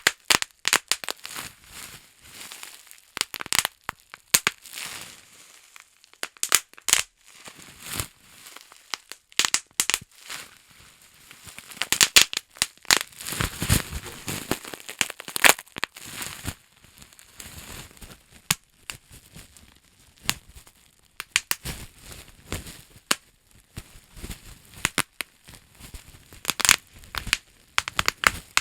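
Bubble wrap being crinkled and popped, a run of irregular sharp pops and crackles, densest and loudest about halfway through.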